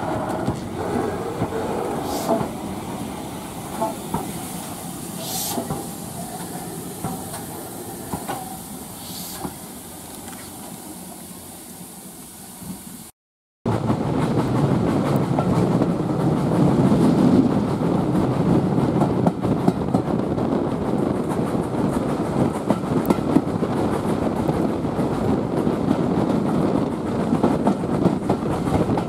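Steam train on a heritage railway running along the line, wheels clicking over the rail joints. After a sudden cut about halfway, a louder, steady stretch of the train running.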